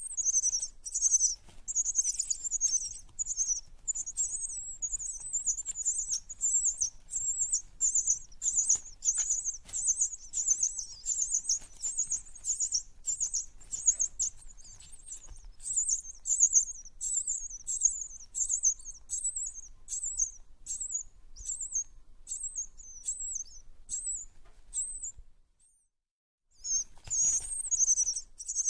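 Small birds chirping in quick high-pitched twittering calls, dense and continuous, breaking off for about a second near the end before starting again.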